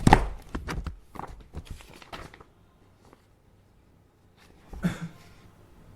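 Things being handled at an office desk: a quick, irregular run of light knocks, clicks and rustles, a pause, and one more short clatter near the end.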